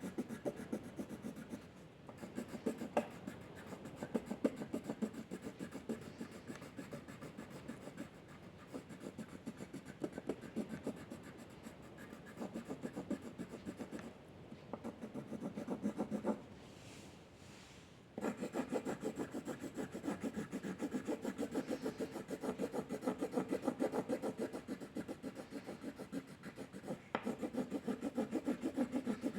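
A drawing tool rubbing on paper in rapid back-and-forth strokes, as in shading or colouring. The strokes pause for a moment about halfway through, then resume louder.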